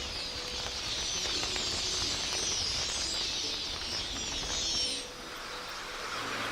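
Dense chatter of many birds calling at once, cutting off suddenly about five seconds in, over a low rumble.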